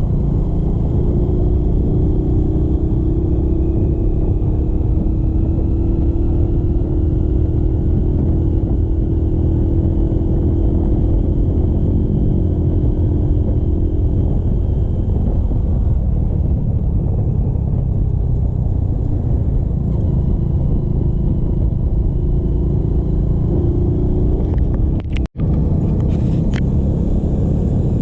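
Motorcycle on the move: a loud, steady rumble of engine and road and wind noise, with a faint engine tone that slowly rises and falls. The sound drops out for an instant near the end.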